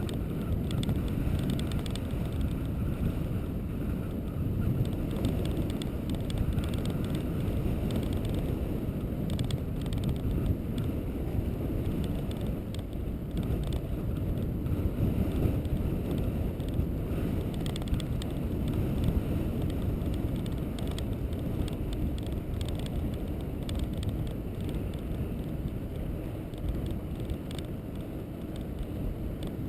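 Steady low rumble of wind on the microphone and road noise from a moving vehicle, with faint scattered ticks.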